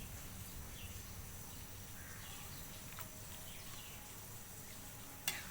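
Faint high chirps of birds over a low steady hum, with one sharp click near the end.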